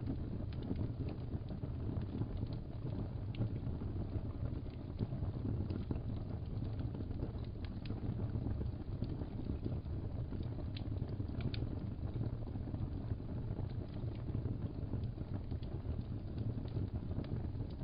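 Wood fire crackling: a steady low roar with scattered sharp pops and snaps.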